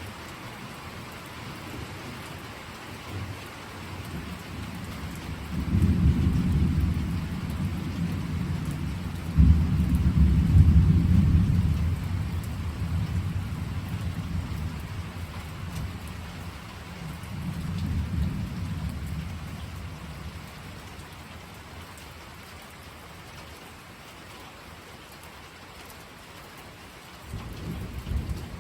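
Steady rain with deep rolling thunder: a rumble builds about five seconds in, peaks with a sharper crack-like onset near ten seconds, rolls on with another swell around eighteen seconds, then fades, and a fresh rumble begins near the end.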